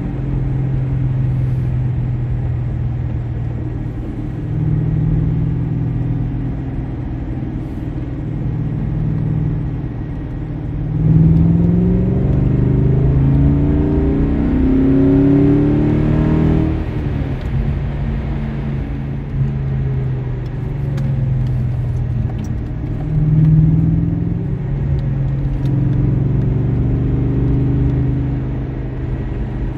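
BMW M5 engine heard from inside the cabin while driving, running steadily and then revving up hard with its pitch climbing for several seconds before dropping suddenly, then picking up again later.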